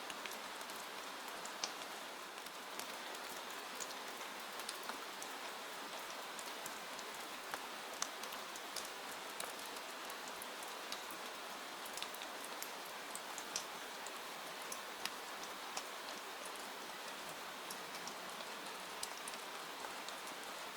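Steady rain falling: an even hiss, dotted with irregular sharp taps of single drops landing close by.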